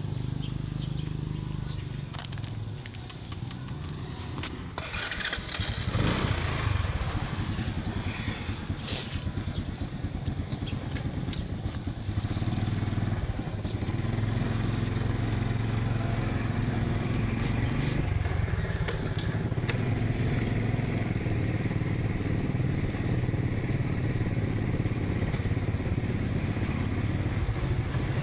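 Motorcycle engine running under way during a ride, a steady drone over road noise. It gets louder about six seconds in and again about twelve seconds in, then holds steady.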